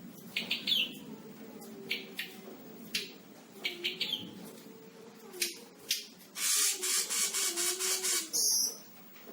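Selendang biru songbird singing vigorously: short, sharp high chirps and squawks in the first half, then a harsh rasping churr lasting almost two seconds, ending in quick high falling notes.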